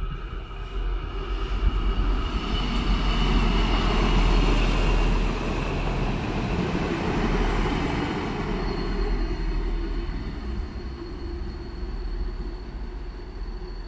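A train running past on the station tracks. The rumble and rattle of the wheels builds to its loudest about four to five seconds in, then slowly dies away. A thin, steady, high whine sets in past the middle.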